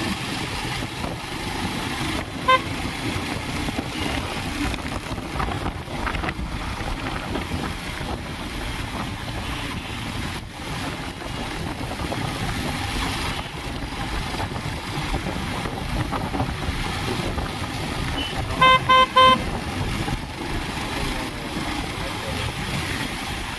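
Steady engine and wind noise from a two-wheeler being ridden through traffic. A vehicle horn gives one short toot about two and a half seconds in, then three quick toots near the end.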